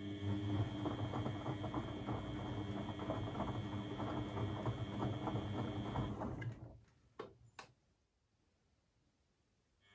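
Beko WMB 71643 PTE washing machine tumbling a wash: the drum motor runs with a steady hum and a dense crackle, winds down about six and a half seconds in, two clicks follow, and after a short pause the drum starts turning again near the end.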